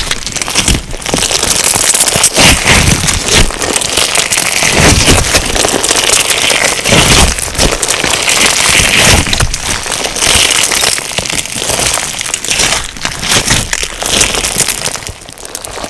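Crunchy slime filled with sugar beads being squeezed and pressed by hand, giving a dense, continuous crackling and popping that swells and eases with each squeeze.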